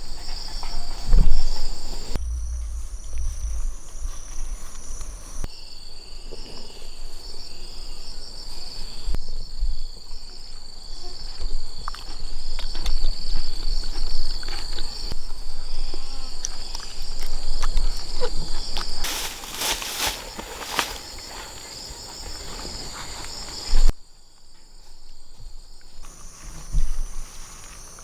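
Insects singing in a steady, pulsing high-pitched trill, with scattered knocks, thuds and rustling of someone working close by. A louder burst of crackling comes about twenty seconds in, and the insect sound drops out and returns abruptly a few times.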